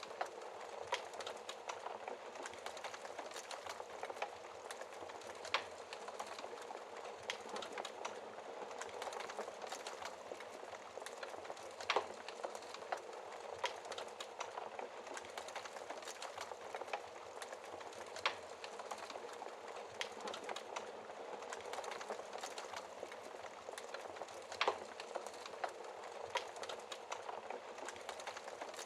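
Wood fire burning in a fireplace, heard through its glass shield: a steady hiss of flames with constant small crackles and four louder pops spaced about six seconds apart.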